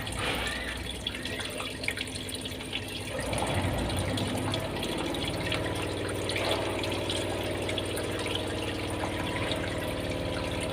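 Dirty water draining out of a washing machine. About three seconds in, a steady machine hum starts and runs under the water.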